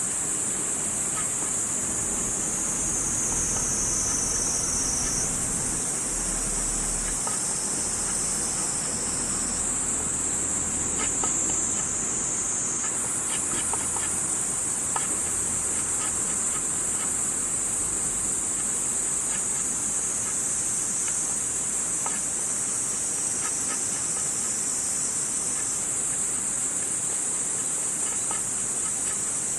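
Steady, high-pitched chorus of insects trilling without a break, its pitch shifting slightly now and then, with faint scattered crackles from a wood campfire underneath.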